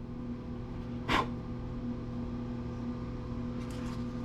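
A single sharp click about a second in as the plastic-and-metal planer housing is handled during disassembly, over a steady low electrical hum.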